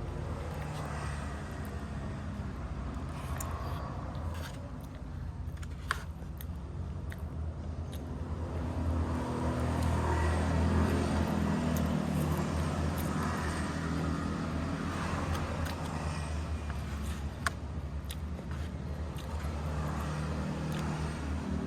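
A steady low engine hum, like a motor vehicle running, rising a little partway through, with a couple of sharp clicks.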